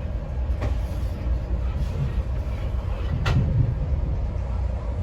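Amtrak Pacific Surfliner train running, a steady low rumble with a couple of sharp knocks, the louder one about three seconds in.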